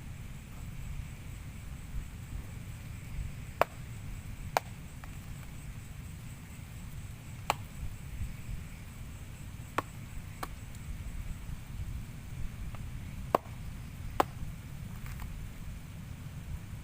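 A series of seven sharp knocks, like chopping strokes, irregularly spaced one to three seconds apart, over a low steady rumble.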